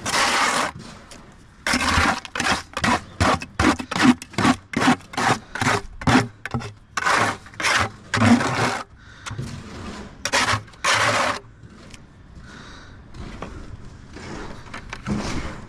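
A hand tool scraping through wet concrete in a quick series of strokes, about two to three a second, stopping about eleven seconds in: concrete being mixed or shovelled by hand.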